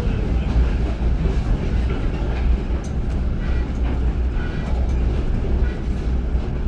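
Excursion train passenger car rolling along the track, heard from on board as a steady low rumble.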